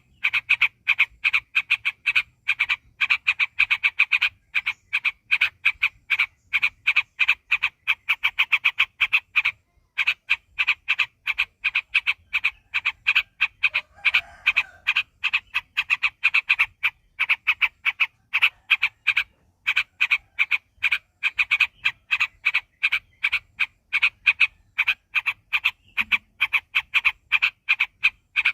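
Yellow-vented bulbul (trucuk) singing a long, rapid rolling chatter of many quick repeated notes, broken by a brief pause twice.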